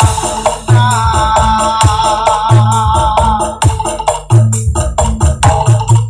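Loud music played over a large sound system for a sound check: heavy bass notes about every two seconds under fast, crisp percussion and a wavering, held melody line.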